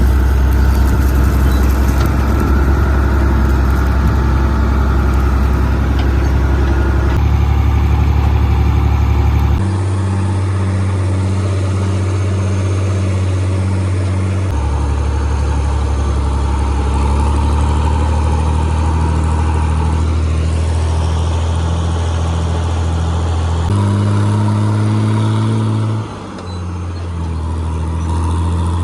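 Farm machinery engines running steadily, the engine sound changing abruptly several times as it switches from one machine or shot to the next.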